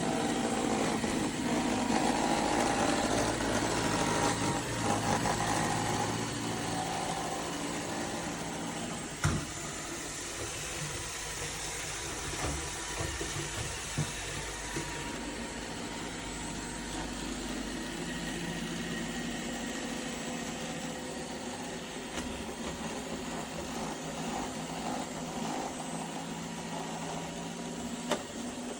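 Roomba robot vacuum running, a steady motor and brush whir, louder for the first several seconds and then a little quieter, with a sharp knock about nine seconds in.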